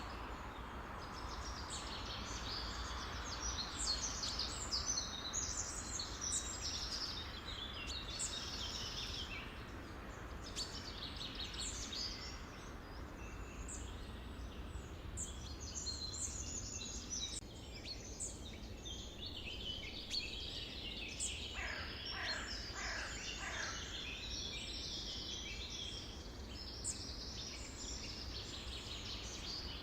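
Several songbirds singing at once, a dense mix of chirps and trills over a steady low background noise. About two-thirds of the way through, a run of calls slides downward in pitch.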